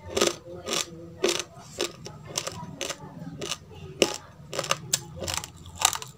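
Close-up chewing of a mouthful of raw basmati rice, the hard dry grains crunching about twice a second.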